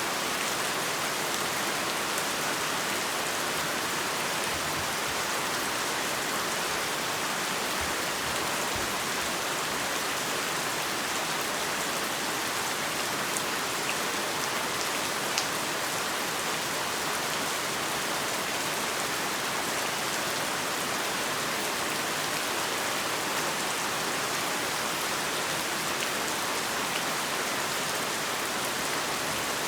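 Heavy rain falling steadily, an even hiss with scattered drops ticking on a surface and one slightly louder drop hit about halfway through.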